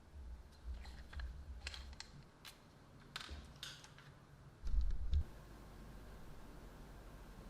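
A run of light, sharp clicks and taps from small hard parts being handled, then a short low thud about five seconds in.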